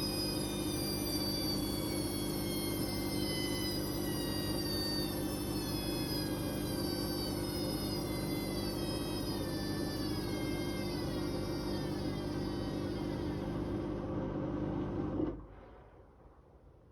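Whirlpool Indiana 1400 washing machine running, a steady hum under a high whine that slowly falls in pitch. It cuts off abruptly about fifteen seconds in, leaving near quiet.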